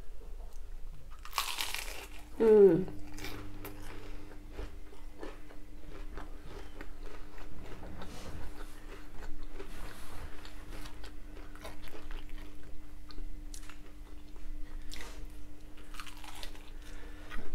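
Close-miked chewing and biting of battered cod bites and chips: crisp batter crunching and wet mouth clicks. There is a short falling hum about two and a half seconds in, and a faint steady hum runs underneath after that.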